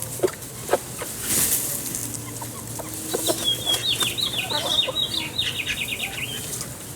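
A flock of chickens clucking and scratching, with short low calls scattered through. About three seconds in comes a run of quick high chirps that lasts about three seconds.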